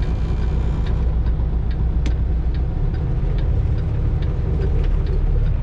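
Semi-truck's diesel engine running at low speed, heard from inside the cab as a steady low rumble, with faint regular ticks about two or three times a second.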